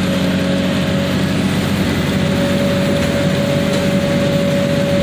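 A car crusher's engine and hydraulic pump running steadily, with a constant high whine over a dense rumble.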